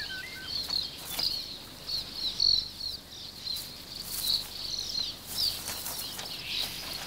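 Small birds chirping and twittering in quick, high calls throughout, with a few short clicks among them.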